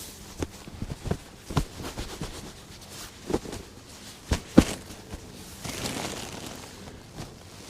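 Scattered knocks and clicks of camping gear being handled, with a brief rustle about six seconds in.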